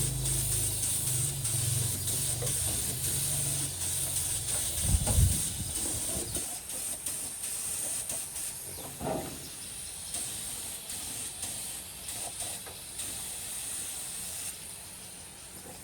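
Steady, high-pitched hiss of air or spray. A low machine hum fades out after about four seconds, and there is a loud thump about five seconds in.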